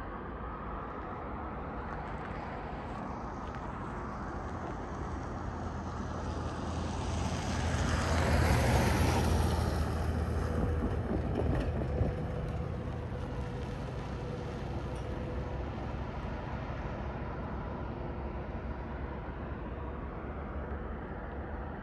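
Freight train passing, led by two GE ES44AH diesel locomotives. A steady low rumble swells to its loudest about eight to ten seconds in as the locomotives go by, then settles into the steady rolling of the cars. One sharp clank comes about twelve seconds in.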